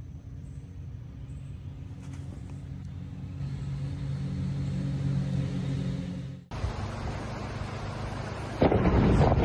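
A steady, engine-like low hum that grows louder, then cuts off abruptly about six and a half seconds in. A louder rushing noise follows and swells near the end.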